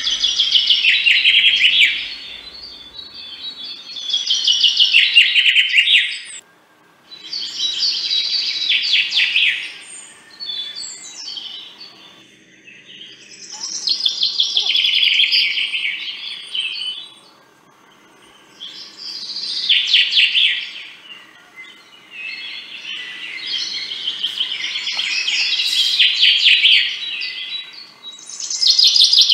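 Songbirds chirping in bouts of rapid high trills, a new phrase every few seconds with short quieter gaps between.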